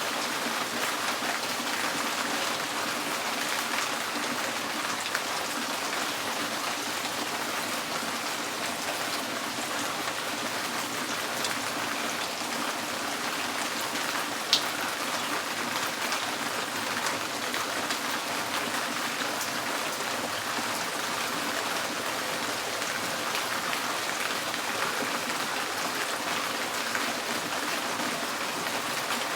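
Rain falling steadily on a tin porch roof, with one sharper single tick about halfway through.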